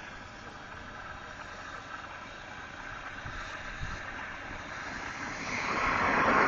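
A passing vehicle on the road: its noise builds over the last second and a half and is loudest near the end, over a steady background hiss.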